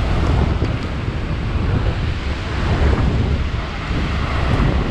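Heavy wind buffeting the microphone over the steady rush of falling water at Niagara Falls, heard from a tour boat.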